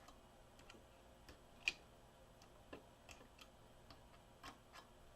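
Faint, scattered light clicks and taps of multimeter probes being touched to the figure's battery contacts, one slightly louder about a second and a half in. The meter's continuity beeper stays silent: there is no continuity, a sign of a broken battery lead.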